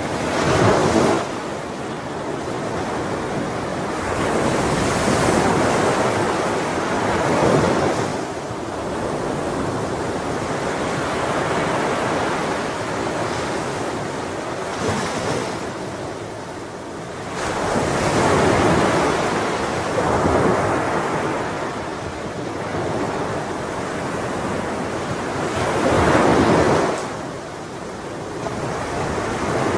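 Ocean waves breaking and washing on a shore, with a steady surf noise that swells as each wave breaks, about five times, and ebbs between them.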